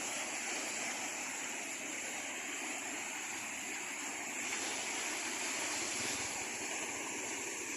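Flash floodwater rushing down a swollen creek, a steady, even wash of water noise.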